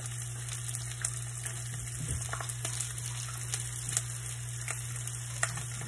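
Food frying in a pan: a steady sizzle with scattered small crackles and pops, over a steady low hum.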